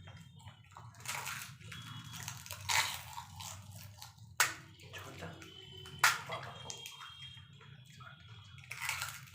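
Fuchka (pani puri) being eaten in a hurry: wet crunching and slurping as puris filled with sour tamarind water are bitten and sucked down, with a couple of sharp clicks. A steady low hum runs underneath.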